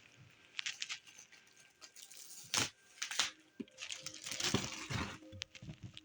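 Packaging being handled: crinkling and rustling, with a couple of sharp knocks about two and a half and three seconds in and a longer burst of rustling near the end.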